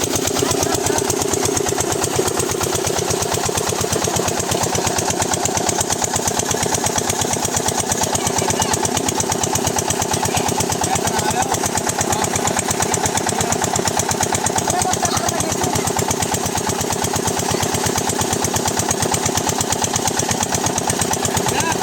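Lister-type diesel engine of an irrigation water pump set, just started and running steadily with an even, rapid beat of firing strokes.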